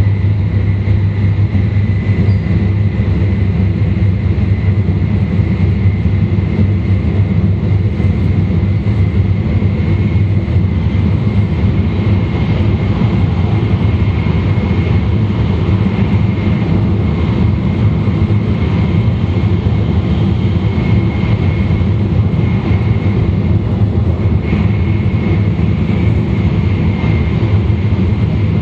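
E2 series Shinkansen train with Mitsubishi IGBT traction equipment running on the line, heard from the vestibule between cars. A steady low rumble carries a thin, steady high whine throughout.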